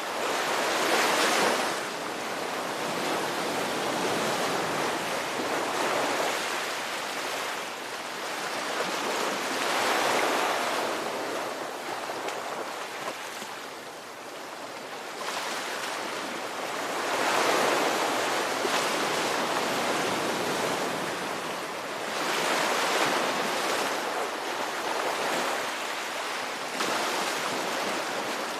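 Ocean surf breaking in slow, uneven swells, a louder wash of water every four to seven seconds that eases back between waves.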